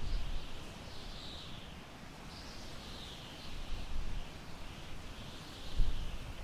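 Summer wind gusting across the microphone with a low rumble that rises near the end, while a bird in the grassland repeats high, descending calls several times.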